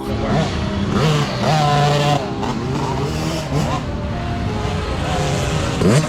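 Several dirt bike engines racing, revving up and dropping back as they shift, with the pitches of different bikes overlapping.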